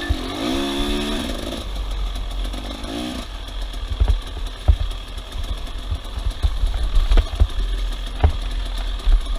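An off-road vehicle engine revving up and down, then again briefly about three seconds in, followed by low rumbling with scattered sharp knocks.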